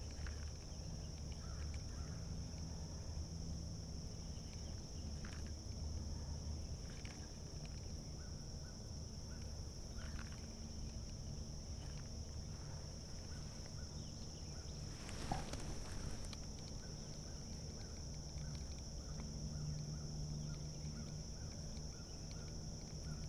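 Steady, high-pitched drone of insects such as cicadas or katydids in a late-summer creek setting, over a low rumble, with a few faint clicks.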